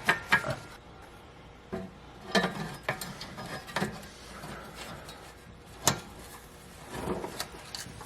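Aftermarket exhaust H-pipe being worked into place under a car: scattered metal knocks, clicks and scrapes as the pipe is handled and fitted, with a sharper click about six seconds in.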